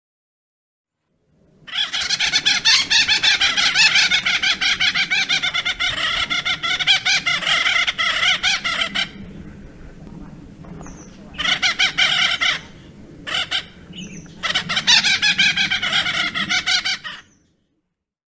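A woodpecker calling in rapid chattering runs: one long run of fast repeated notes, then three shorter bursts.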